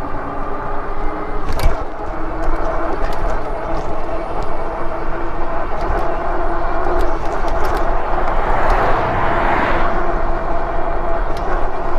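Riding a Lectric XP e-bike: steady road and wind rush with a constant whine from the hub motor, and scattered light clicks and rattles. A louder rush swells and fades about nine seconds in.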